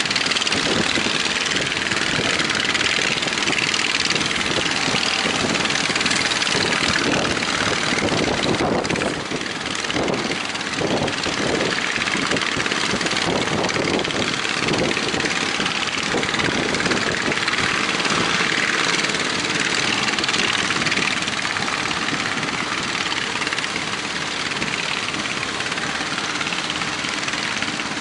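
Fishing boat engines running under a steady rushing noise that fills the whole stretch, with a brief dip about nine seconds in.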